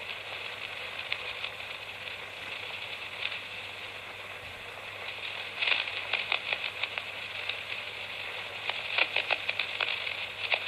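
Steady hiss through a PMR446 handheld radio's small speaker, with bursts of crackle about halfway through and again near the end.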